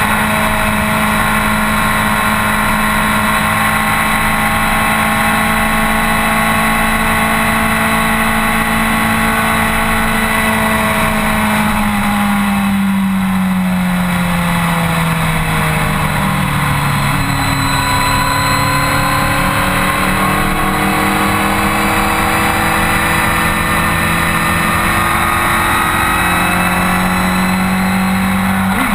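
BMW K1200R inline-four engine running under steady throttle while the motorcycle cruises, with heavy wind and road rush. About twelve seconds in the engine note falls as the rider eases off, then climbs slowly again as the bike picks up speed.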